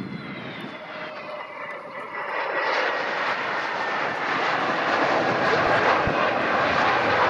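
Airliner's engines passing: a high whine falling in pitch over the first two seconds, then a roar that grows steadily louder.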